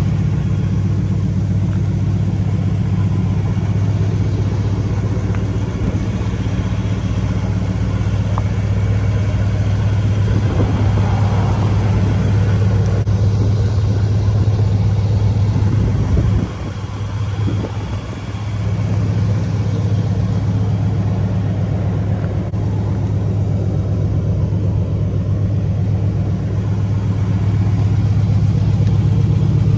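1980 Oldsmobile 98's engine idling steadily, with a brief drop in level a little past halfway.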